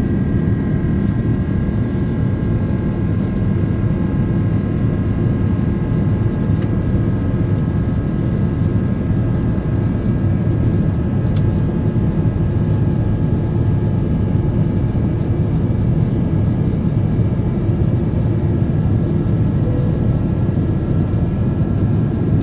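Jet airliner engines at high thrust heard from inside the cabin: a steady, loud low roar with a steady high whine over it.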